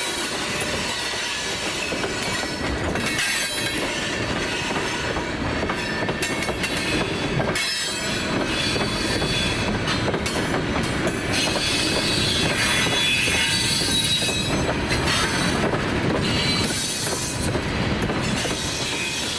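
Freight cars rolling past with steady rumbling and clacking of wheels over the rail joints, and a high, steady wheel squeal of flanges grinding on curved track.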